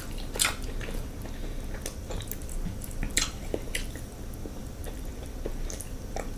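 Close-miked eating sounds: wet chewing and lip smacking on saucy seafood, with scattered short clicks and smacks.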